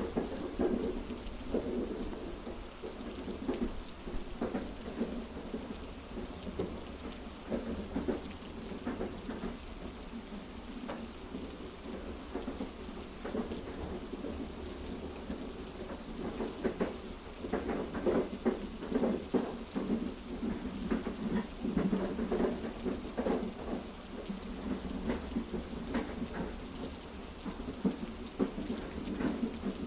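Heavy rain falling steadily, with a constant low rumble underneath. The patter thickens into denser bursts of drops around the middle.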